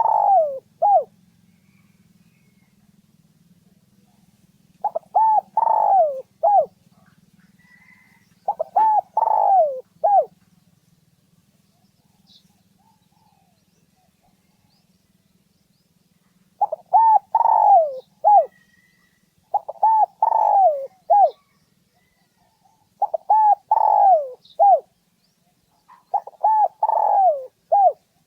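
Spotted dove cooing: about seven phrases of several notes each, separated by pauses of one to several seconds. This is a decoy bird's call, used to provoke rival males into coming in to fight.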